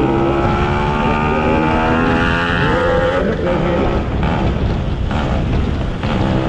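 Yamaha RX two-stroke motorcycle engine accelerating on the move, its note climbing steadily for about three seconds. It is then broken by several short dips, as the throttle is eased and gears change.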